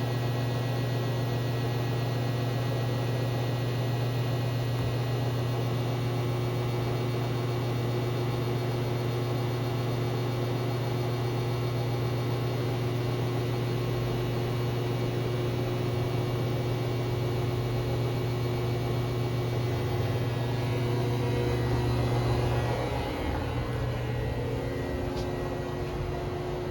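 Samsung washing machine drum spinning on its spin cycle, a steady hum with no knocking or rattling: the newly replaced drum spider is holding the drum steady. About 23 seconds in, the hum shifts as the motor changes speed.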